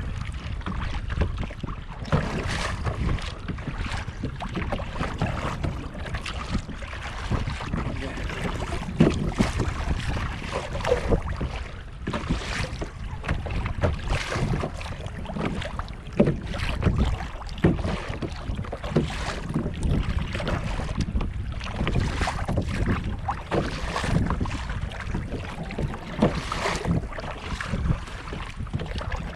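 Kayak paddle dipping and splashing in the water in a steady rhythm, a stroke every second or two, with wind buffeting the microphone.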